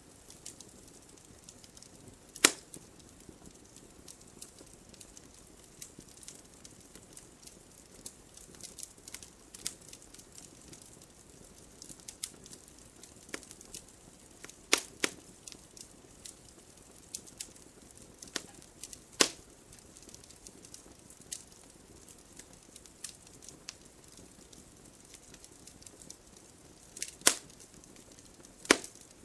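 Campfire crackling: scattered small ticks and snaps over a faint hiss, with a handful of louder pops.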